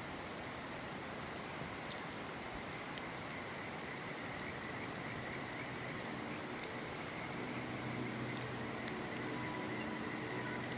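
River water rushing steadily, with insects trilling steadily and scattered sharp crackles and pops from a wood campfire.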